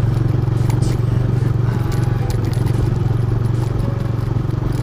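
TVS Raider 125's single-cylinder engine running steadily at low revs, with scattered rattles and clicks from the motorcycle jolting over a rough off-road trail.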